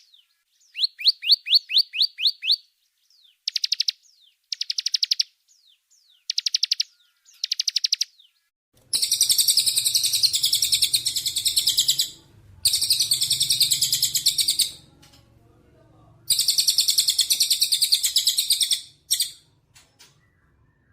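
Small songbirds calling: short bursts of rapidly repeated high chirps at first, then from about nine seconds in long, loud, rattling trills lasting a few seconds each, with brief gaps between them.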